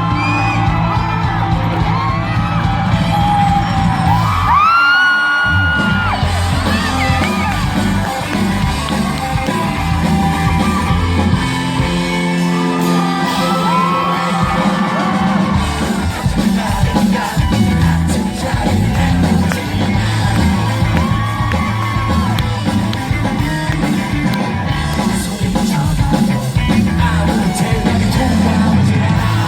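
Live pop-rock band playing loudly, with voices singing and whooping over the music, including one long held high note about five seconds in.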